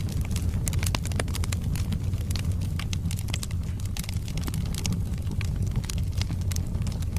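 Wood fire crackling: many irregular sharp pops and snaps, several a second, over a steady low rumble of the burning logs.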